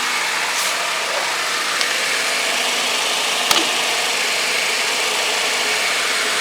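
2014 Chevy Malibu's 2.5 L Ecotec four-cylinder engine idling steadily after a fresh oil fill, run to check the drain plug and filter for leaks. A sharp click about three and a half seconds in.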